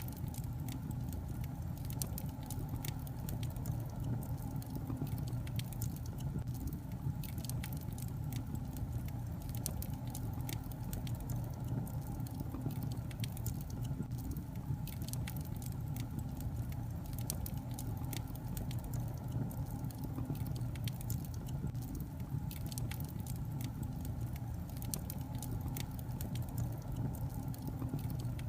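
Logs burning in a fireplace: irregular sharp crackles and pops over a steady low rumble of the flames.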